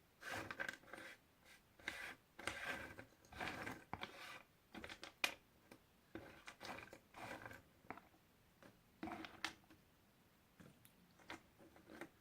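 Puzzle pieces being handled: bursts of rustling and sliding with sharp little clicks, busiest in the first five seconds, then a few scattered taps.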